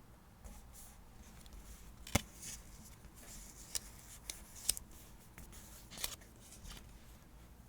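Paper and stationery being handled for diary decorating: soft rustles with a handful of sharp clicks and taps, the loudest about two seconds in.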